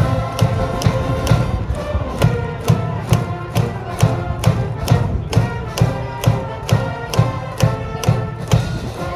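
High school cheering band in the stands playing a brass fight tune, with a bass drum striking evenly about twice a second.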